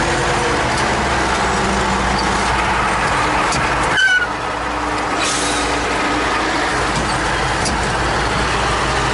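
T-150K wheeled tractor's diesel engine running steadily. About four seconds in there is a brief knock, after which the sound drops slightly.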